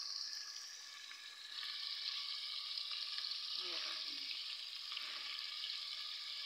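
Potato pieces sizzling as they fry in ghee in a pot: a steady, even sizzle that eases slightly about a second in, then picks up again.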